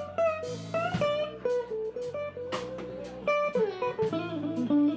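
Live blues band: electric guitar playing a single-note lead line with bent notes, falling in a run of notes near the end, over bass guitar and a drum kit.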